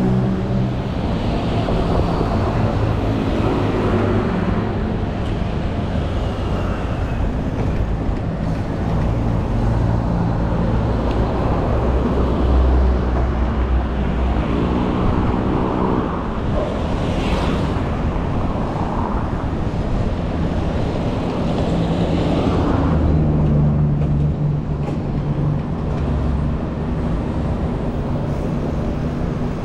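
City road traffic heard from a bicycle: steady traffic noise with vehicle engines running and passing close by, their drone rising and fading several times.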